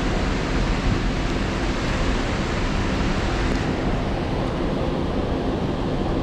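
Heavy rain pouring steadily, an even wash of noise with no breaks.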